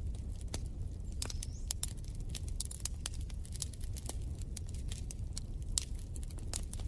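Wood fire in a fireplace crackling, with irregular sharp pops and snaps, several a second, over a steady low rumble.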